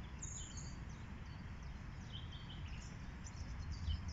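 Birds chirping: many short, high chirps scattered throughout, over a low steady rumble of outdoor background noise.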